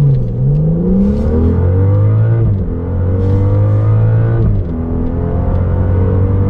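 Car engine accelerating hard, its pitch climbing steadily with two upshifts, about two and a half seconds in and again near five seconds, each a sudden drop in pitch before it climbs again.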